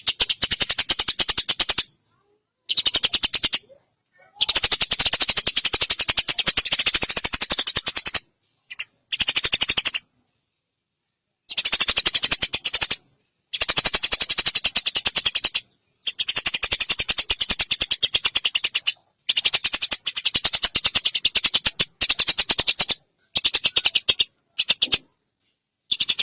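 Eurasian tree sparrows chattering in very rapid, high-pitched chirp runs, the agitated calls of sparrows fighting, coming in bursts of one to four seconds with short gaps between.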